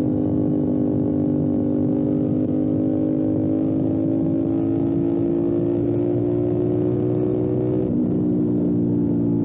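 Motorcycle engine running under way, its pitch rising slowly as it pulls, then dropping sharply about eight seconds in at an upshift.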